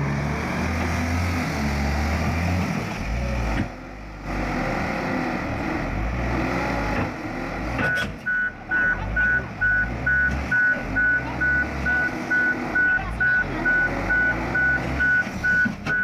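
Heavy vehicle's engine running. About halfway through, a reversing alarm starts beeping steadily, about two to three beeps a second.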